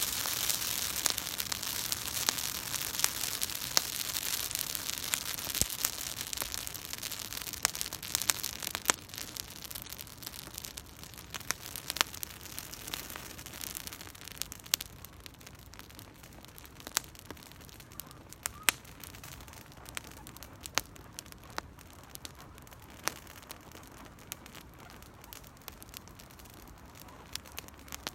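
Campfire kindled with dry Japanese cedar needles crackling as it burns. A dense, hissing crackle dies down over the first half, leaving scattered sharp pops.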